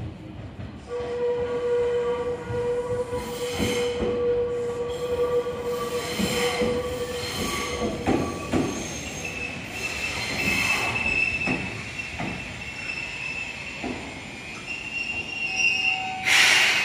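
Seibu 2000 series four-car electric train moving slowly through depot pointwork on a shunting move: wheels clacking over the rail joints and points, with steady squealing tones from the wheels on the curves. A short loud burst sounds near the end.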